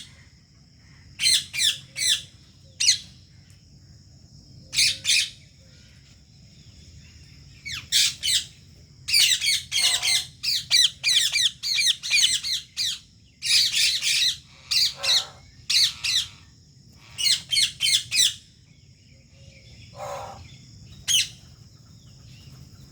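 Indian ring-necked parakeets squawking: shrill, short calls given in quick runs of several notes, with pauses between runs and several birds calling over one another in the middle stretch.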